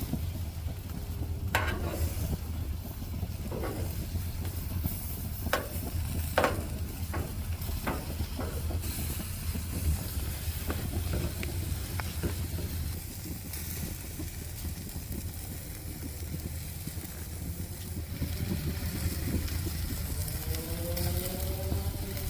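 Chicken wings sizzling on a gas grill over a steady low rumble, with a run of sharp clicks and knocks in the first nine seconds or so.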